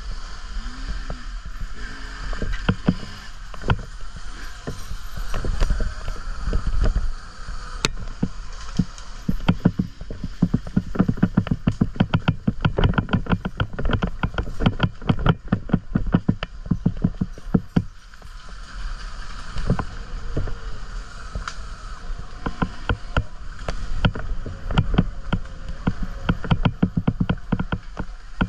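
Riding a dirt bike over rough, muddy trail, heard from a camera on the bike: a steady rush of wind on the microphone with rapid rattling and knocking from the bike over the bumps, thickest in the middle.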